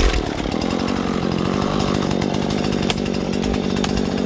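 Husqvarna 120 Mark III two-stroke chainsaw running. It starts with a loud burst, then holds a steady engine note.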